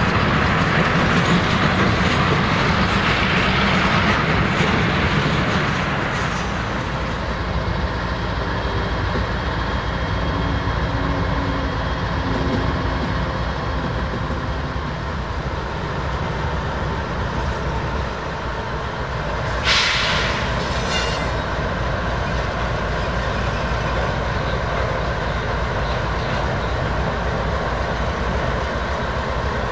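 Diesel freight locomotives passing close by: Union Pacific units first, then Canadian Pacific GE units rolling slowly with a steady engine rumble and wheel noise. A short hiss comes about two-thirds of the way through, with a briefer one just after.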